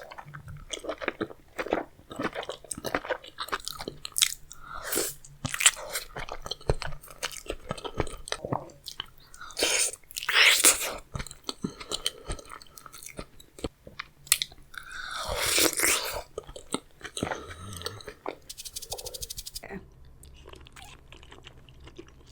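Close-miked eating of seafood boil: chewing, biting and crunching, with two louder, longer stretches of wet eating noise about ten and fifteen seconds in. It grows quieter in the last couple of seconds.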